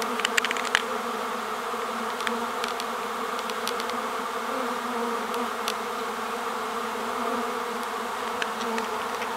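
A swarming honeybee colony buzzing: a dense, steady hum of thousands of bees in flight, with a few short sharp ticks scattered through it.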